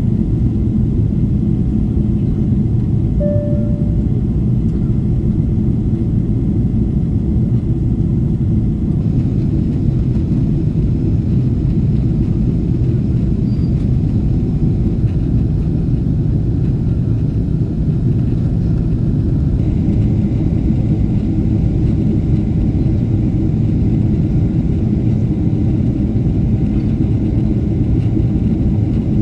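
Steady low rumble inside the cabin of a Boeing 777-300ER, from its GE90 engines and the airflow, during the climb after takeoff.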